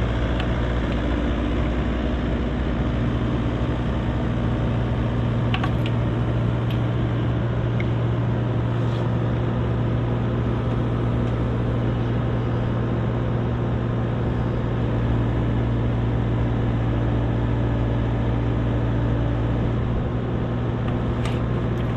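Engine of the heavy machine doing the lift, running at a steady, constant speed.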